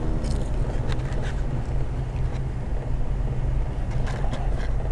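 Car engine idling, heard from inside the cabin as a steady low hum, with a few faint light clicks over it.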